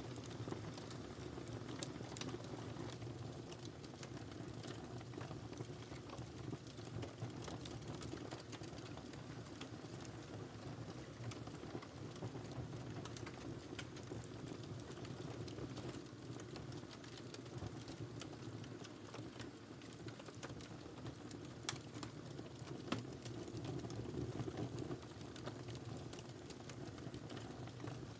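Wood fire burning in a fireplace: a steady low rumble with scattered crackles and pops, and a few sharper pops about three quarters of the way through.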